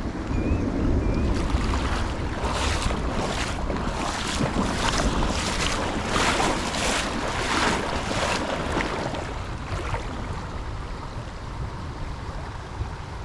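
River water running with wind on the microphone. From about a second and a half in until about nine seconds, a quick run of splashes sounds close by.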